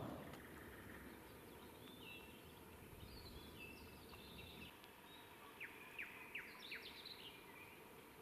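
Faint birdsong over a quiet background hiss: scattered short high chirps, then four or five quick, sharp notes sweeping downward in the second half.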